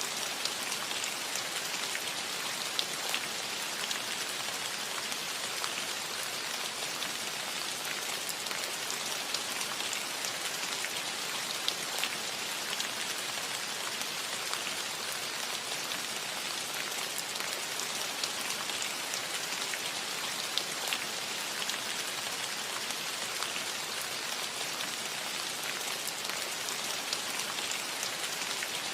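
Steady rain falling on a roof: a constant hiss with many separate drops ticking through it.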